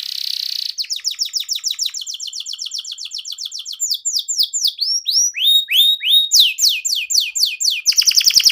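Canary singing a continuous song of trills. It opens with a short buzzy note, then runs of rapid repeated down-slurred notes with a few slower sweeping notes in the middle. A faster trill comes near the end.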